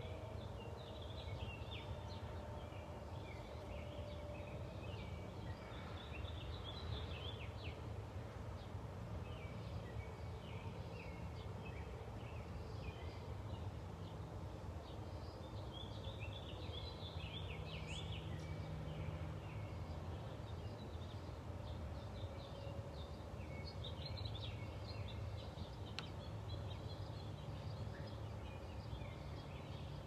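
Faint, high-pitched bird chirps in scattered clusters over a steady low background rumble.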